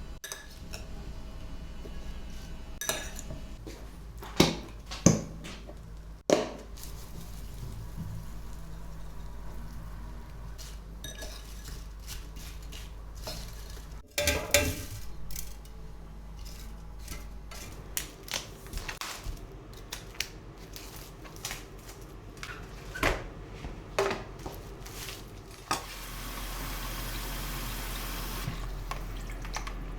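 Dishes and cutlery clinking and knocking in kitchen handling, with scattered sharp clinks. Near the end a steady rushing hiss starts.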